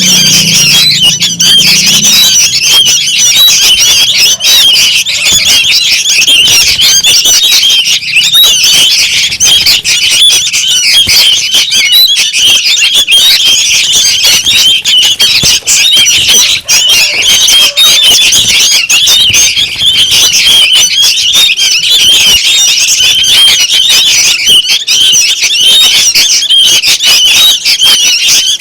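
Young sooty-headed bulbuls calling noisily together, a dense, unbroken chatter of many rapid high calls. It is a lure call of the kind used to draw bulbuls in.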